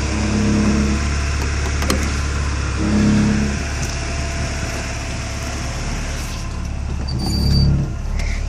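Porsche 944's 2.5-litre inline-four idling steadily, with three short swells in its low note. The exhaust has a slight rumble, which the owner puts down to a loose exhaust hanger.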